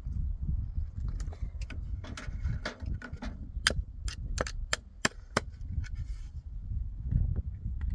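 Irregular sharp knocks and taps on wood, with a quicker run of about six louder strikes in the middle, over a low rumble.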